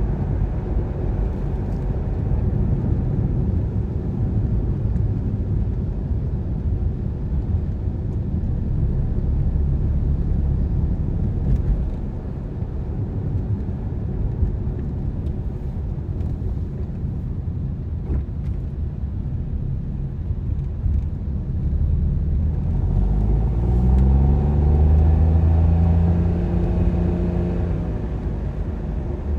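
Car driving on the road, a steady low rumble of engine and road noise. Toward the end an engine's pitch rises for a few seconds as it accelerates, then holds.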